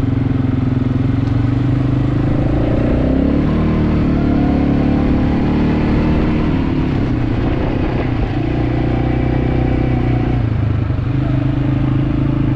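Quad bike (ATV) engine running while riding, its note shifting up and down a few times as the engine speed changes.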